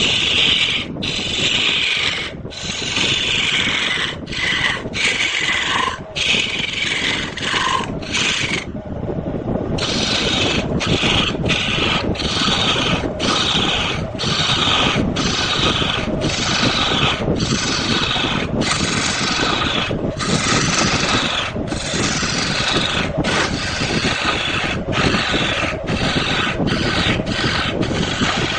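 Turning tool cutting wood on a manual wood lathe: a rasping scrape in regular strokes about one and a half a second, each broken by a brief gap, with a pause of about a second near a third of the way in.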